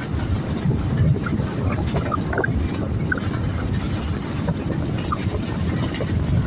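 An engine running steadily: a continuous low rumble, with a few short high chirps over it.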